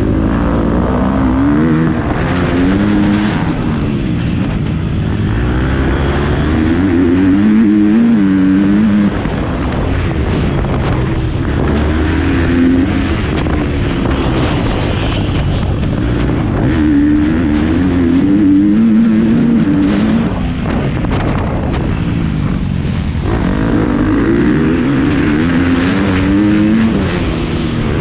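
Motocross dirt bike engine revving hard and easing off again and again, its pitch rising and falling every few seconds with throttle and gear changes as it rides the track.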